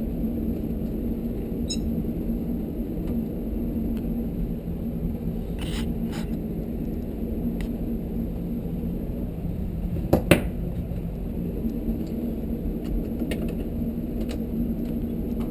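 Hand tools working on a tankless water heater's metal housing: a few light clicks and one sharp metal knock about ten seconds in, over a steady low hum.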